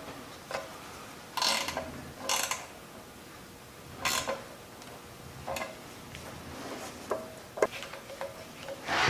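Hand tools working on machinery: about eight short metallic clicks and rattles at irregular intervals of one to two seconds.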